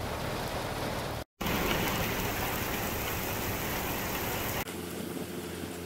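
Heavy rain falling steadily on sandy ground and puddles, an even hiss. It drops out for a moment about a second in, comes back louder and brighter, and turns softer from about four and a half seconds on.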